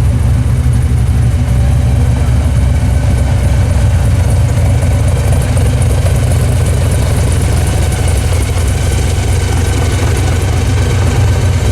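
Engine of an XB Ford Falcon Mad Max Interceptor replica with a blower, running steadily with a strong low rumble and no revving.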